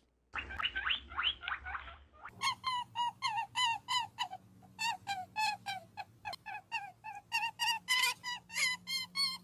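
A bird calling over and over: a quick jumble of calls at first, then a run of separate calls at about three a second.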